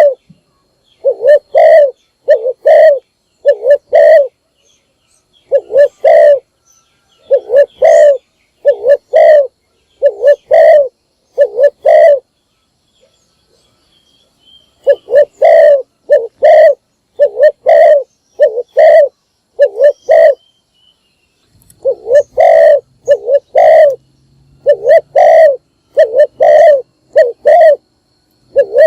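Spotted dove cooing loud and close: runs of short, evenly spaced coo notes, with pauses of one to two seconds between runs.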